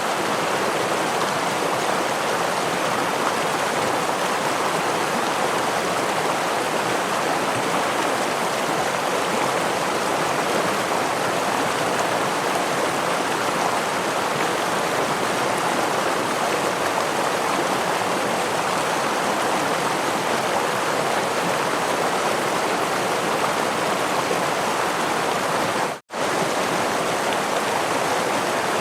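Steady rushing of a forest stream and small waterfall, an even wash of flowing water. Near the end it cuts out completely for an instant, then resumes unchanged.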